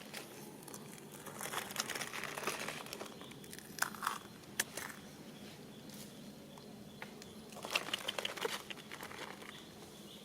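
Irregular crinkling and rustling with scattered sharp clicks, louder in bursts about four seconds in and again near the end.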